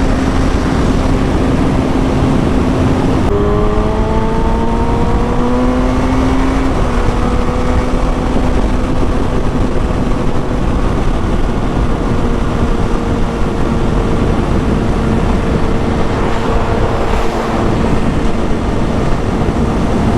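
A motorcycle engine under way beneath heavy wind rush. About three seconds in the engine note drops with an upshift and then climbs as the bike pulls. A second upshift comes around seven seconds in, after which it holds a steady cruising note.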